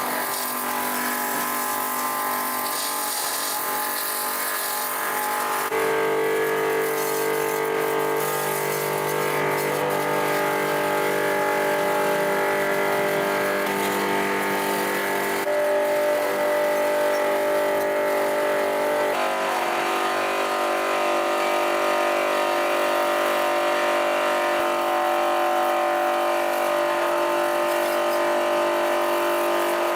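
A motor running steadily with a whine of several held tones, its pitch shifting abruptly about six, fifteen and nineteen seconds in.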